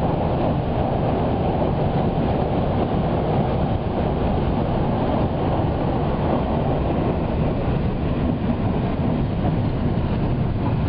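Steady running noise of the Haruka limited express train, heard from inside the passenger cabin as it travels.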